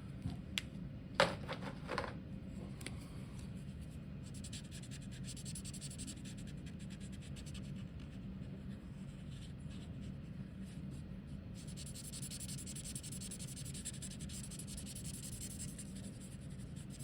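Marker tip scratching across paper in quick coloring strokes, over a steady low hum. A few short clicks in the first two seconds.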